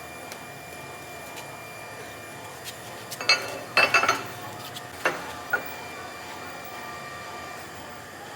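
Metal clanking: a short clatter of sharp knocks a little over three seconds in, then two single knocks about a second later, over a steady faint hum.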